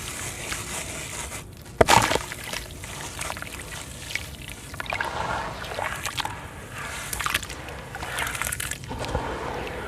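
Lumps of sand-and-cement crumbling and breaking up in water, with a sharp, loud crunch about two seconds in and several shorter crumbling, sloshing bursts after it.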